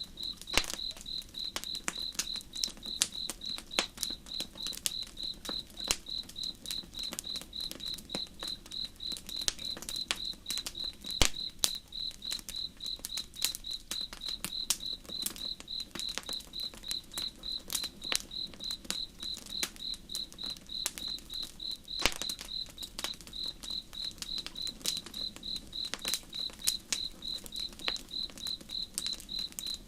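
Campfire crackling, with irregular sharp pops (two louder ones, about a third and about two-thirds of the way through), while a cricket chirps steadily in an even, fast rhythm.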